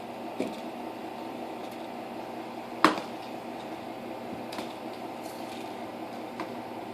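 Knocks and thumps from cats playing with a teaser wand on the floor: one sharp, loud knock about three seconds in, and a few fainter ones near the start, past the middle and near the end, over a steady room hum.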